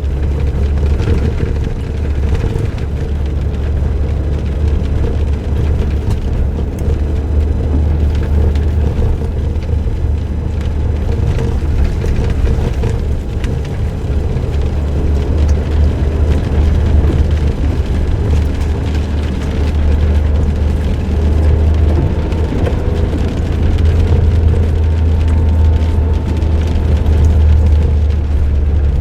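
Suzuki Jimny JB23W's 660 cc three-cylinder turbo engine, fitted with an aftermarket muffler, and its road noise, heard from inside the moving car as a steady low rumble.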